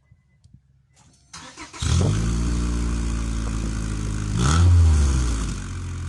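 Exhaust note of a 1999 Honda Accord's 2.3-litre four-cylinder engine through a newly installed cat-back exhaust system. The engine sound comes in suddenly about two seconds in and runs steadily. Near the end it revs up once and settles back.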